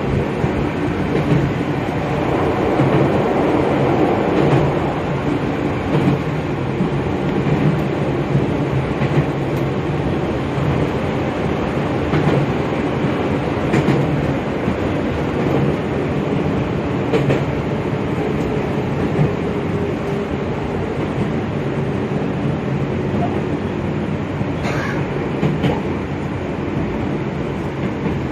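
Chichibu Railway electric train running along the line, heard from inside the front car: a steady rumble of wheels on rail, with occasional clacks over the track.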